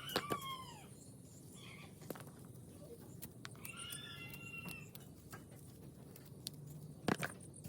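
Domestic chickens calling: a short falling call at the start and a longer call of about a second midway, with a few sharp knocks, the loudest near the end.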